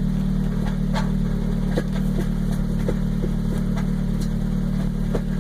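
Mazda Miata engine running steadily, with short, irregular squeaks and squeals from its five-speed transmission. The owner takes them for a synchro problem, or possibly the pilot bearing.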